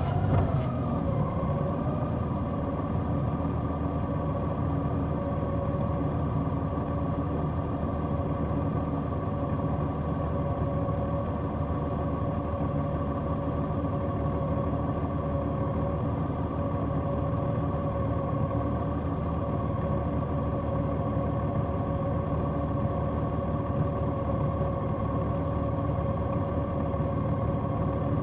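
Large motorcycle engine idling with a steady, unchanging note, settling down in the first second or so as the bike comes to a stop.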